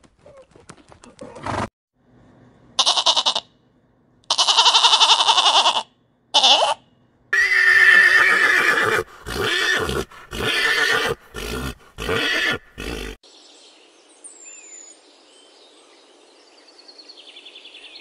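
Horses whinnying: a short neigh, a long whinny of nearly two seconds, then another short neigh. A run of short, loud bursts of sound follows. After that come faint birdsong-like chirps and whistles.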